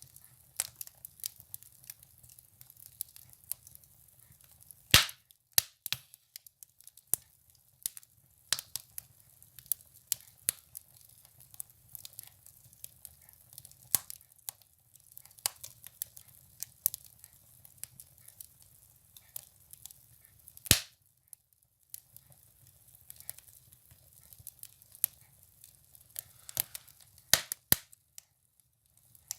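Firewood burning in a stove, crackling with irregular small snaps and two louder pops, about five seconds in and about twenty-one seconds in, over a faint low rumble.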